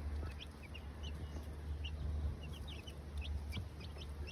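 Silkie chicks peeping: many short, high cheeps, several a second, over a low steady rumble.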